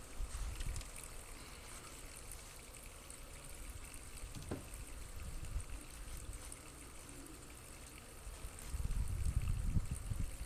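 Wind buffeting the microphone in low, irregular gusts, strongest near the end, over a faint steady hiss.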